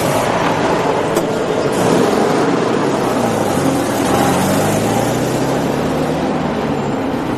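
Open-top car's engine pulling away and accelerating, its note rising about three seconds in and then holding steady.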